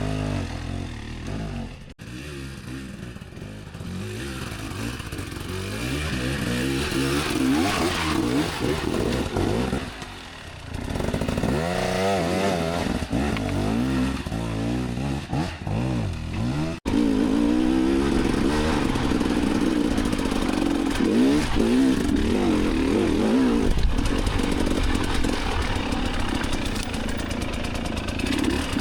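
Dirt bike engine revving up and down repeatedly as it is ridden, with clattering. The engine dips sharply about 2 s in and again around 17 s, and runs louder and steadier from there on.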